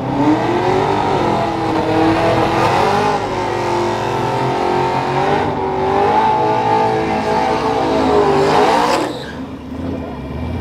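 A truck's engine running at high revs during a drag pass, its pitch holding high with a few small dips and rises. It drops away abruptly about nine seconds in.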